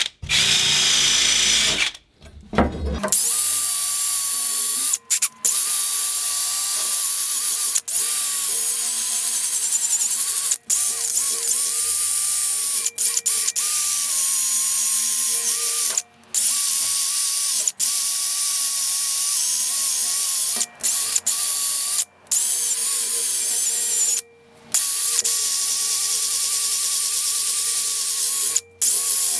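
An electric power tool running steadily at speed, with a whine that wavers a little in pitch. The sound cuts off abruptly for a moment about ten times.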